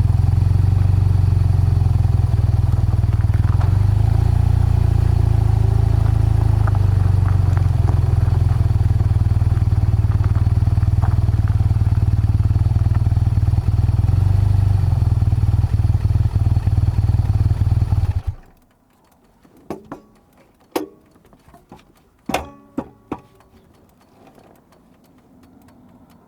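BMW R12's boxer-twin engine and exhaust running steadily, then cut off abruptly near the end as the engine is switched off. After it stops, a few sharp clicks and knocks are heard.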